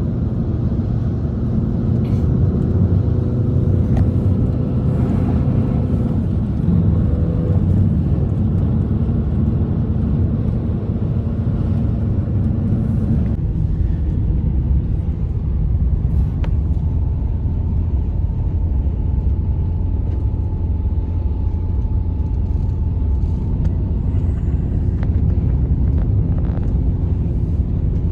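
Blizzard wind blowing hard and steadily, a low rumbling roar with faint thin whistling tones over it.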